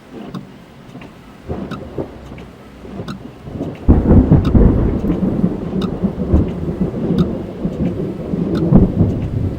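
Rain pattering on a car's roof and windscreen, heard from inside the car. About four seconds in, a loud thunderclap breaks and rolls on as a heavy, low rumble.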